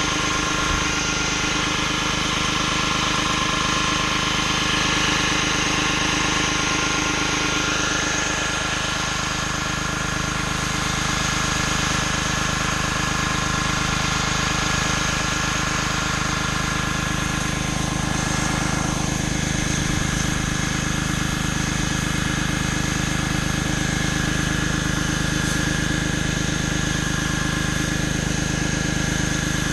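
Pressure washer engine running steadily under load, with the hiss of the high-pressure water spray over it.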